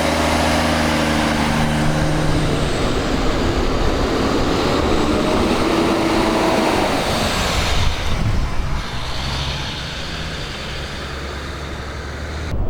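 Heavy engine running steadily amid dense mechanical noise, getting quieter about eight seconds in; the sound cuts off abruptly near the end.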